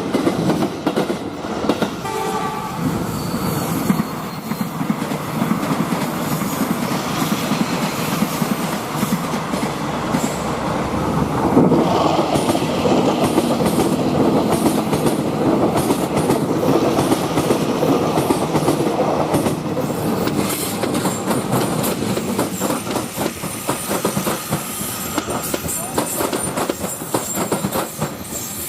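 Train running along the track, a continuous rumble with rapid clickety-clack clatter, and a brief horn-like tone about two seconds in.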